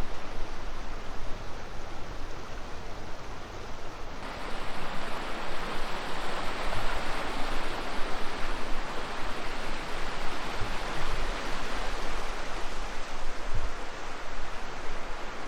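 Wind rushing and buffeting over the microphone of a moving electric unicycle rider, a steady rushing noise with a low rumble that turns brighter about four seconds in.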